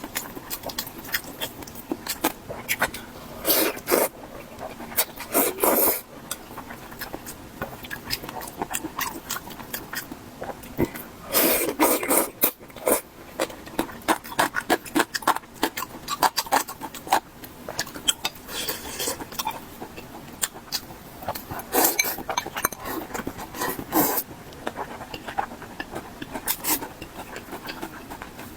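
A person eating mala xiang guo (spicy stir-fried dry pot): a steady run of close wet chewing and mouth clicks. Several louder, longer bites or slurps come through, the longest about eleven seconds in.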